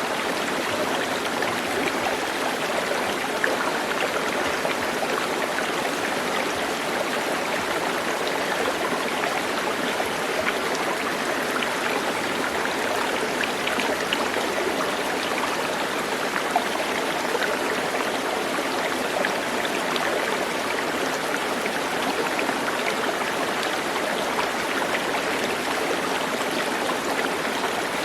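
A stream running steadily, its water splashing and trickling in an even, unbroken rush.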